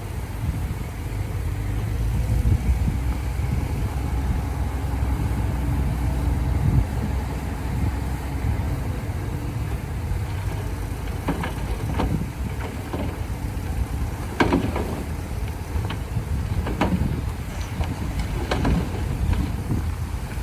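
Heavy diesel engine of a bulldozer running with a steady low rumble. From about halfway through come a series of sharp metallic clanks.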